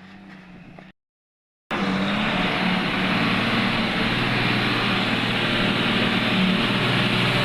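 A quieter machine hum with a few clicks, then a brief gap of silence about a second in, after which a heavy diesel engine runs loud and steady.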